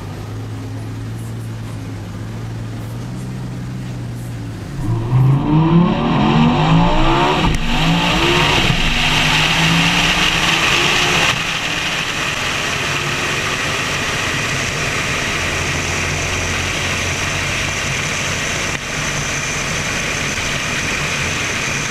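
Twin-turbo Lamborghini Huracán V10 idling at a steady low pitch, then launching hard at about five seconds in. The engine pitch climbs and drops back several times through quick upshifts. After about eleven seconds the sound settles into a steady, somewhat quieter high rush as the car runs away down the strip.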